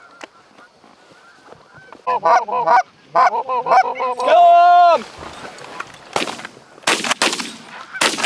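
Goose honking and clucking, then a loud shouted call to shoot. From about six seconds in, a rapid volley of shotgun blasts follows as several hunters fire at geese coming in over the decoys.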